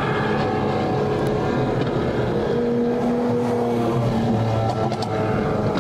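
Lamborghini Aventadors' V12 engines running steadily at cruising speed in a convoy, a sustained drone of several engines with tones that waver slightly but never rise into a rev.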